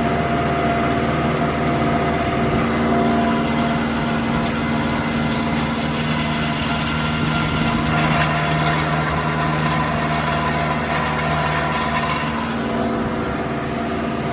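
Tractor engine running steadily while pulling a New Holland 630 round baler at work in the hay. A deeper steady hum joins in about six seconds in and drops away about twelve seconds in.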